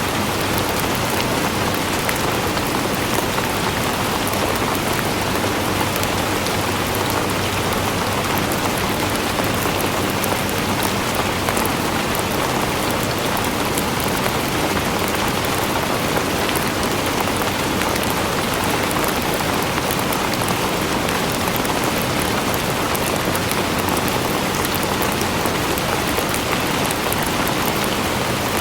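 Steady rain falling on a surface, an even, continuous hiss with many small drop ticks.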